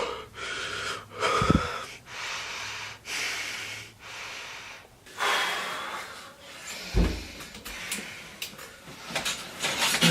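A person breathing heavily in and out, short hissing breaths about a second apart, with one longer breath about five seconds in. Two low thumps, about a second and a half in and about seven seconds in.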